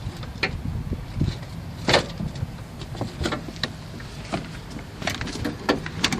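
Irregular clicks and knocks of hand work on the engine bay pipework, about one or two a second, over a low steady hum.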